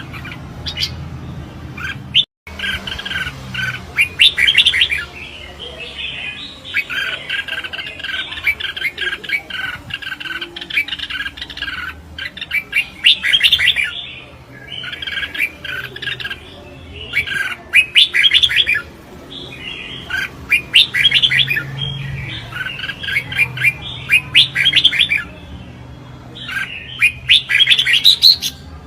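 Red-whiskered bulbuls singing in a competitive singing duel: bursts of quick, chattering song phrases a second or two long, repeated with short gaps throughout. The sound cuts out for an instant about two seconds in.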